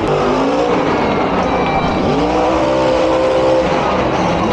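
Monster truck's supercharged V8 engine revving hard. Its pitch falls off early, climbs sharply about two seconds in, holds high for over a second, then drops again near the end.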